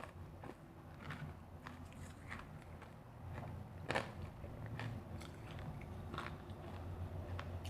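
Refrozen powdery ice being bitten and chewed close to the microphone: irregular crisp crunches, the loudest about four seconds in, over a low steady hum.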